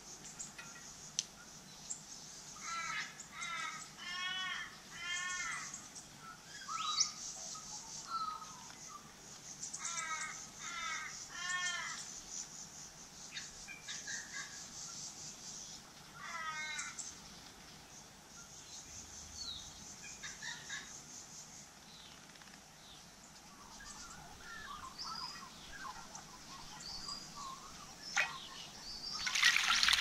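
Harsh bird calls in two runs of three or four arching notes each, about three and ten seconds in, with a few scattered fainter calls. Near the end a common blackbird splashes in a water-filled bird bath, the loudest sound.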